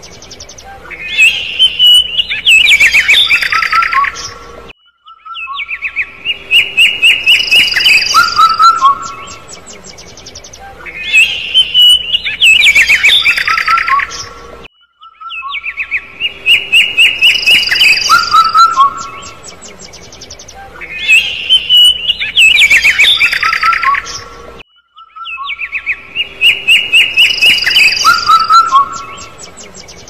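Bird chirping and calling: quick runs of short, high notes and rapid trills, with the same sequence repeating about every ten seconds and a brief pause between repeats.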